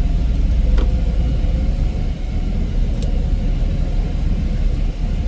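Heavy snow-removal machine running under a steady engine rumble, with a constant droning tone above it and a couple of faint clicks.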